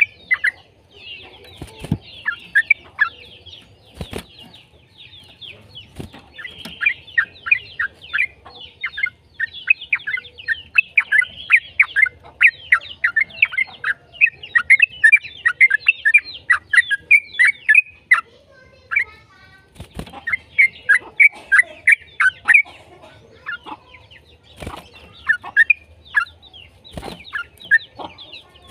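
Yellow-vented bulbul (trucukan) singing in long, fast runs of chattering chirps, with a short pause about two-thirds of the way through. A few sharp clicks cut in now and then.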